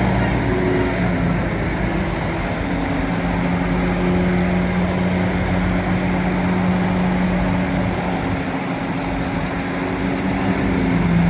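Heavy machine's engine running steadily, a constant low drone with a slight shift in pitch.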